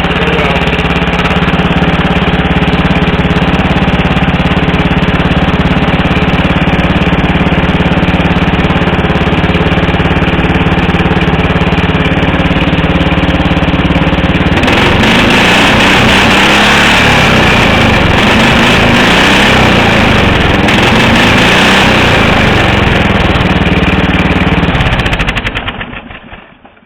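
Riding lawn mower engine running through a homemade exhaust pipe, a steady low idle at first. About halfway through it gets louder and rougher, and near the end it shuts off and dies away.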